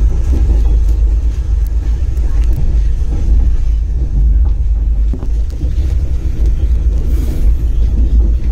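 Steady low rumble of a passenger train on the move, heaviest in the deep bass, with a few faint ticks.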